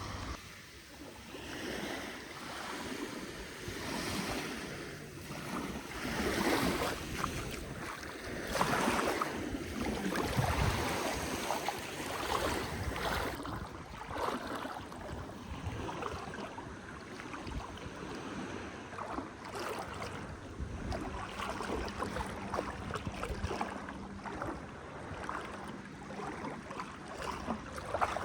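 Sea waves washing onto a beach, swelling and ebbing every few seconds, with wind buffeting the microphone.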